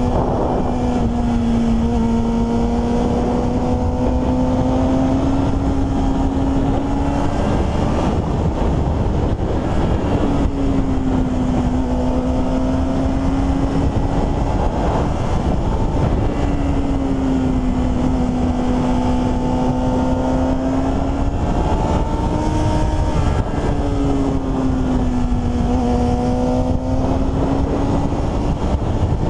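Racing motorcycle engine running hard at high revs under heavy wind noise, its pitch sagging and climbing in long swells that break off and restart every five or six seconds.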